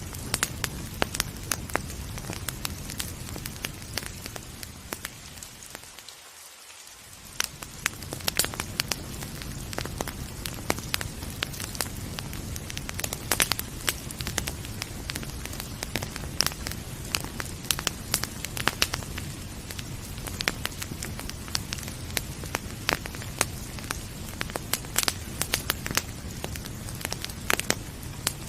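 Wood fire crackling with frequent sharp pops and snaps over a steady hiss of rain. About six seconds in the steady background briefly fades down and comes back.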